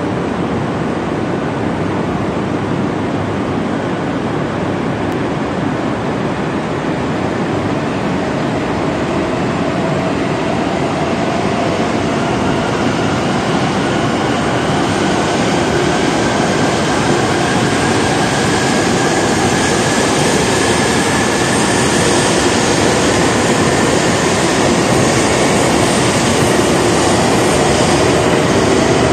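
E2 series Shinkansen train pulling out of the station, with a steady rush of running noise that grows slowly louder. From about halfway through, a whine rises in pitch as the train picks up speed.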